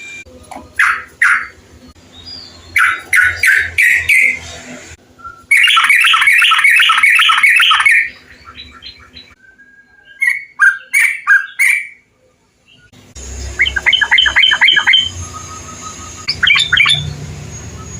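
Bulbul (trucukan) song: bursts of quick, bubbly, chattering phrases from several recordings spliced one after another. There is a loud fast run in the middle, a brief pause, then rapid repeated notes near the end.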